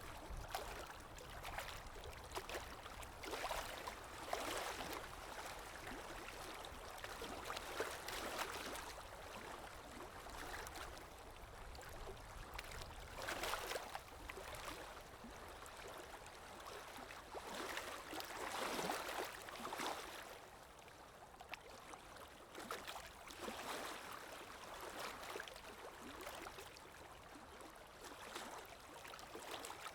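Calm sea waves washing in and out, a soft hiss that swells and fades every few seconds.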